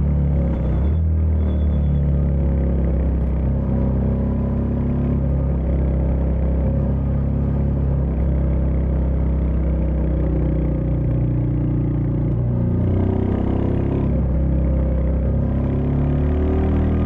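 Royal Enfield Meteor 350's single-cylinder engine running under way, its pitch stepping and gliding up and down as the throttle and gears change, with a clear shift about a second in and rising runs near the end.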